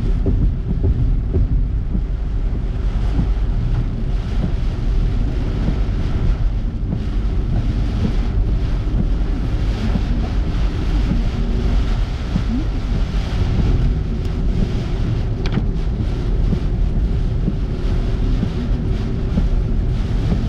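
Steady road and engine rumble inside a moving car, with wind buffeting the microphone.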